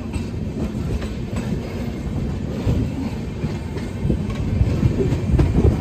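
Passenger express train running at speed, heard from on board: a steady rumble of wheels on the rails with faint clicking over rail joints.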